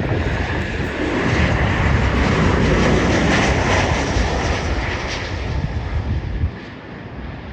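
A jet airliner passing with its engines running: a loud, dense rush with a faint steady whine. The low rumble drops away abruptly about six and a half seconds in.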